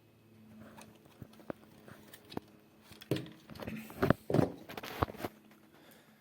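Scattered sharp knocks and clicks, about seven of them and loudest around four seconds in, over a faint steady hum that stops about a second before the end.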